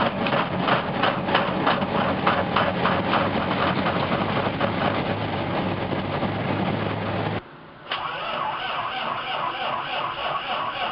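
Turbo Cummins diesel with a P7100 injection pump in a Ford F-700, running through a straight open pipe on a cold start, with an even pulsing beat. The sound drops out for about half a second around seven seconds in, then comes back smoother and steadier.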